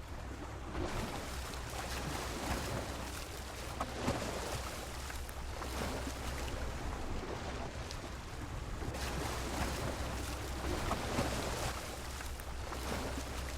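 Sea waves washing against a pier, a steady rushing of water that swells and eases every few seconds.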